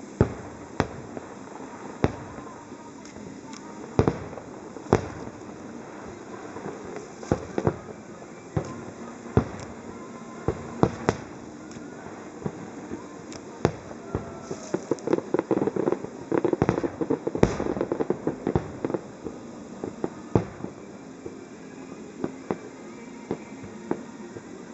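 Aerial firework shells bursting in a series of sharp, irregularly spaced bangs. They thicken into a rapid crackling flurry a little past the middle, then thin out again.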